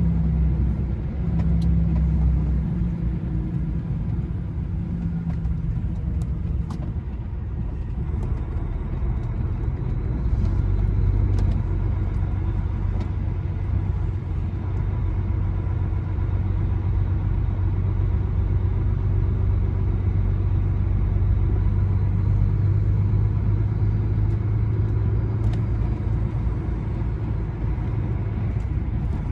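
Lorry engine and road noise heard from inside the cab while driving: a steady low drone whose engine note drops lower about a third of the way in and then holds steady.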